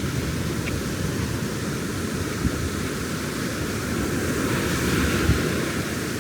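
Ocean surf washing onto the beach over a steady low rumble, with a wave swelling up about four to five seconds in.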